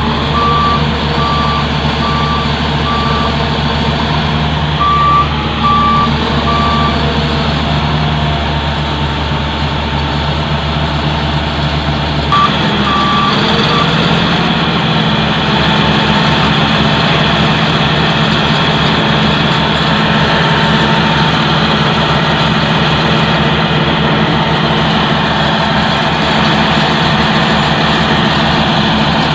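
A heavy vehicle's reversing alarm beeping in a few short runs over the steady running of a heavy diesel engine. The engine note changes about twelve seconds in.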